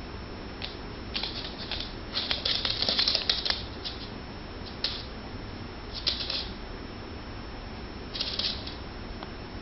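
A kitten and a dog play-wrestling: irregular scratchy bursts of paws and claws scuffling, the longest and loudest about two to three and a half seconds in, with shorter bursts later.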